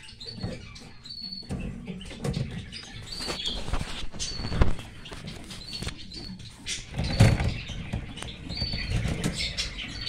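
Caged birds giving short high chirps about once a second, over the rustle and knocks of the cage being handled, the loudest knocks near the middle and about seven seconds in.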